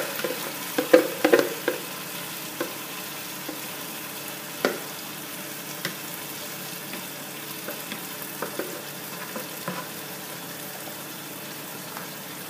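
Marinated chicken and yogurt sizzling as they go into hot, oily masala in a pot, with a steady hiss. A spatula scrapes the marinade bowl and the pot, with sharp knocks and clatter, most of them in the first two seconds.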